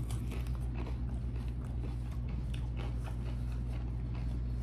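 Close-miked chewing of a bite of shrimp ceviche tostada: soft, scattered mouth clicks and small crunches over a steady low hum.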